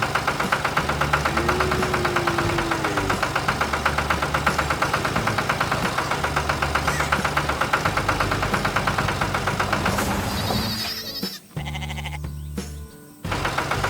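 Diesel engine of heavy logging machinery running with a fast, even knocking clatter; the sound drops away sharply twice near the end.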